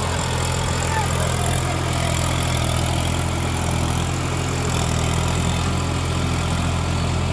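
Tractor's diesel engine running at a steady, even idle.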